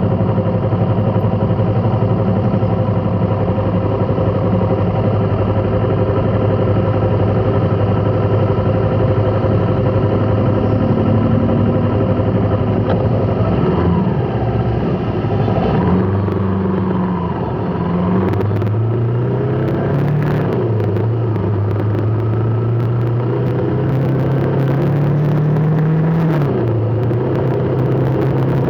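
Motor vehicle engine running at a steady idle, then rising and falling in pitch several times in the second half as it speeds up and slows in stop-and-go traffic.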